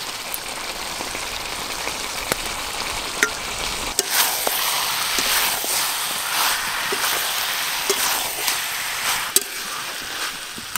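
Mutton pieces and spice paste sizzling in a metal kadai while being frying down (kosha) with fried onions, stirred with a metal spatula. The sizzle grows louder about four seconds in, when the stirring starts, and the spatula scrapes the pan with a few sharp clicks.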